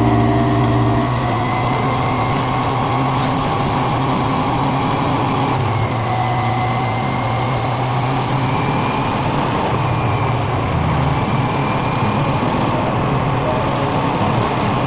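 A motor vehicle engine running steadily, with a continuous low hum under road and wind noise.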